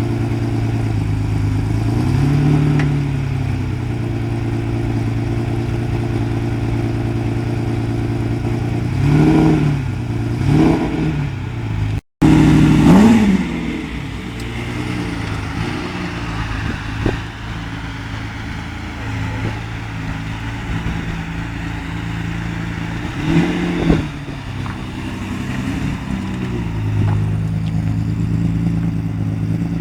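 Ferrari 550 Maranello's V12 with a Tubi exhaust idling steadily, given several short throttle blips that rise and fall in pitch, a few of them in quick pairs.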